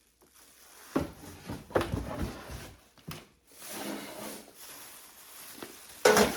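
Objects being handled and set down: a few knocks and clunks close together, then softer rustling, and a short louder sound near the end.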